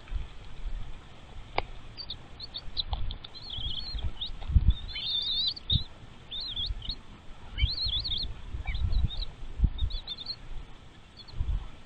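Small birds chirping in quick, high twittering runs, busiest about five and eight seconds in, with soft low thuds underneath.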